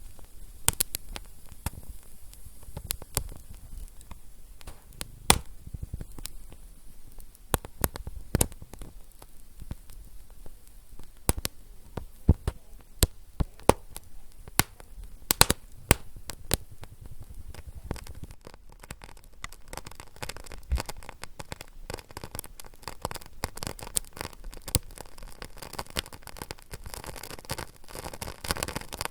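Fire crackling: irregular sharp pops over a low rumble. About two-thirds of the way through, the crackle turns denser and hissier.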